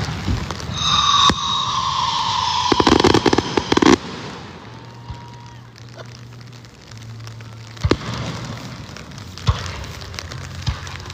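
Fireworks display. About a second in a whistling shell goes up with a high, slightly falling whistle. Around three seconds in comes a dense rapid crackle, and near the end two sharp separate bangs.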